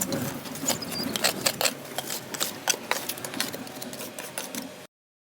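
Steel bar scraping and clicking along patio joints, raking out old crumbling grout and dirt in quick, irregular scrapes and taps. It cuts off suddenly near the end.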